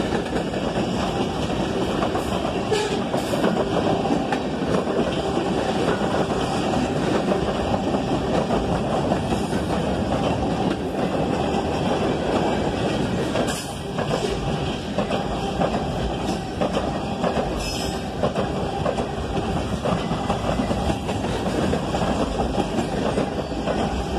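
Freight cars of a long CSX freight train rolling past close by: a steady rumble of steel wheels on rail with a clickety-clack over the rail joints, broken by a few brief sharp high sounds.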